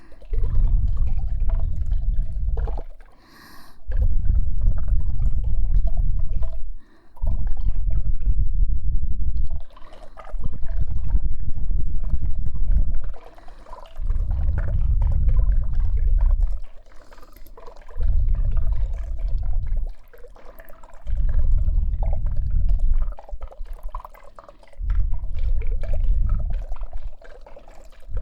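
Muffled rubbing strokes on the ears of a KU100 binaural dummy-head microphone: about eight deep, rumbling passes of two to three seconds each, with short pauses between.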